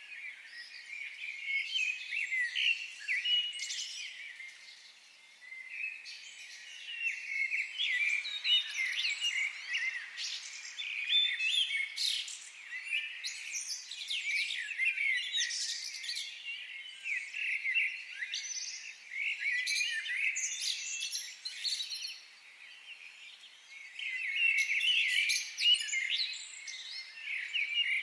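Several birds singing together in a forest: a dense chorus of quick chirps and trills, thinning out briefly twice.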